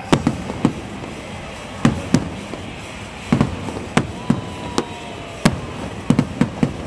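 Aerial firework shells bursting overhead: an irregular series of about fifteen sharp bangs, some in quick pairs and a cluster near the end.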